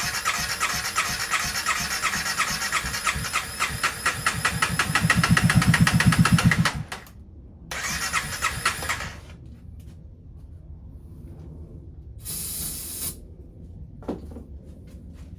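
Honda CBR300R's electric starter cranking the single-cylinder engine in a fast, even rhythm without it firing, stopping about seven seconds in, then a second short crank. The engine won't catch because its fuel pump isn't running. A short hiss and a click follow near the end.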